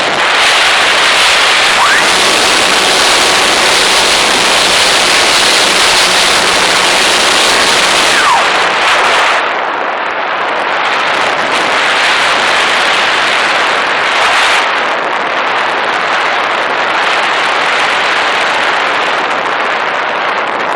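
Model airplane in flight heard from its on-board camera: a loud, steady rush of wind and propeller noise with crackling buffeting on the microphone. The rush turns duller for about five seconds past the middle.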